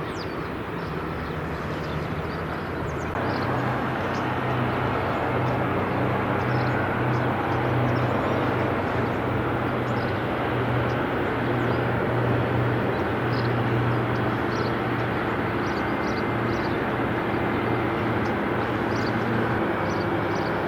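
Steady outdoor machine noise with a low hum that swells about three seconds in and then holds, with short faint high chirps over it.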